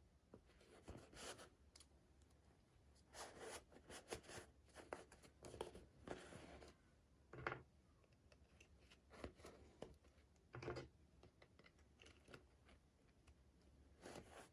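Faint, intermittent rustling, crinkling and clicking of small toy packaging being opened and handled by hand, with a couple of sharper taps.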